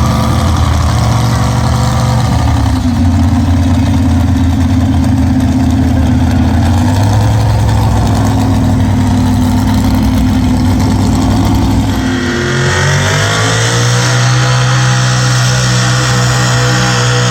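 Pulling truck's engine running loud and steady, its pitch shifting a couple of times before climbing about twelve seconds in and holding higher.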